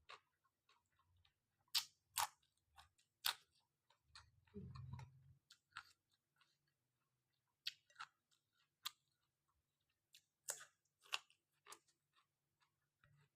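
A person eating khanom jeen rice noodles with fish-entrails curry: quiet chewing with scattered sharp mouth clicks and smacks at irregular intervals.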